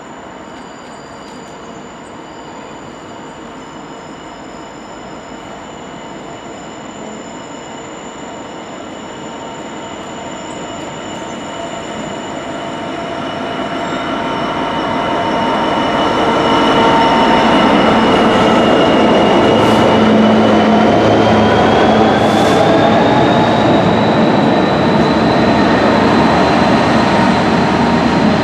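Class 66 diesel locomotive hauling a container freight train, growing steadily louder as it approaches and then holding loud as the engine and wagons pass. High steady squealing tones from the wheels on the rails ride over the rumble, rising in pitch near the end.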